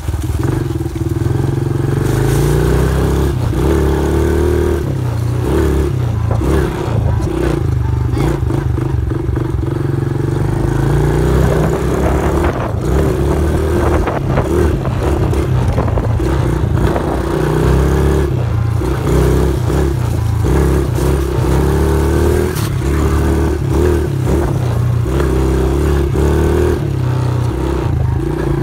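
Dirt bike engine running while being ridden, its pitch rising and falling as the throttle opens and closes, with frequent knocks and rattles throughout.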